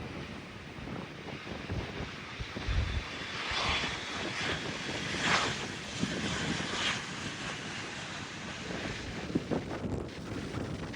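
Gusts of wind buffeting the microphone over the steady noise of aircraft engines, with a faint whine in the middle.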